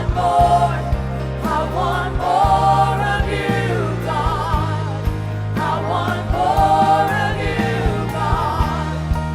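Slow gospel worship song: sustained low chords that change every few seconds under a singing voice with a wavering vibrato.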